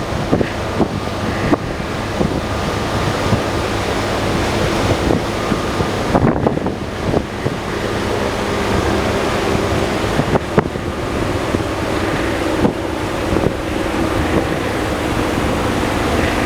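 Airbus H175 helicopter running nearby: a dense rush of rotor and engine noise with a faint steady turbine tone, buffeted by wind on the microphone.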